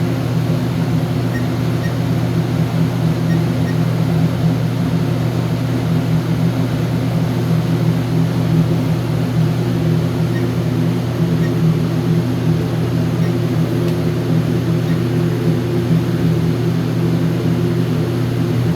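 A steady low machine hum that holds the same pitch and level throughout.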